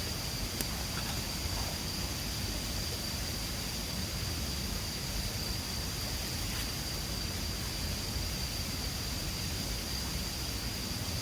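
Mountain river flowing, a steady even rushing, with a thin steady high-pitched tone above it and a couple of faint ticks.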